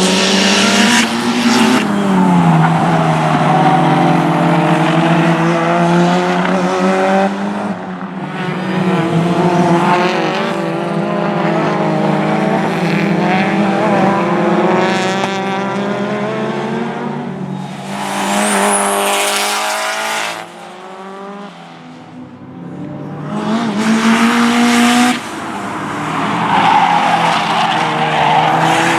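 Time-attack race cars driven hard on a circuit, in a string of short cuts. Engines run at high revs and rise and fall in pitch through the gears as cars pass, with some tyre squeal.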